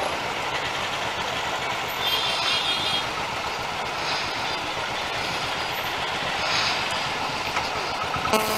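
Motorcycle engines, the rider's own Royal Enfield among them, running steadily at low speed in slow, congested traffic. A short horn-like tone sounds near the end.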